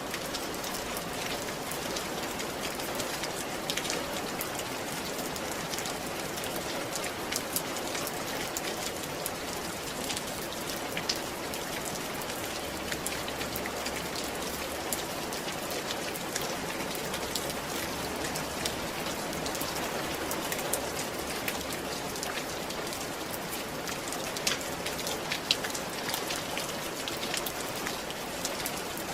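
Steady rain falling on a roof, a constant hiss scattered with many small, sharp drop impacts.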